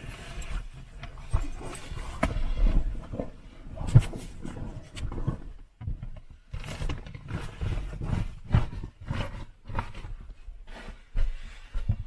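Irregular bumps, rustling and low rumbling of microphone handling noise as the camera is carried and turned around inside the car.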